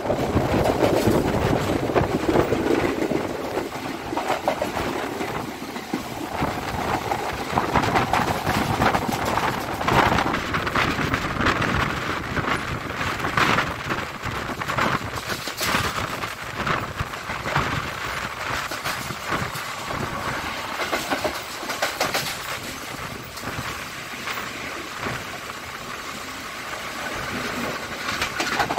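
Passenger train running at speed, its carriage wheels rattling on the track with irregular clicks and knocks, heard from an open carriage window.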